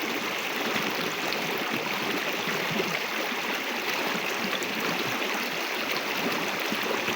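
A river's water flowing in a steady, unbroken rush.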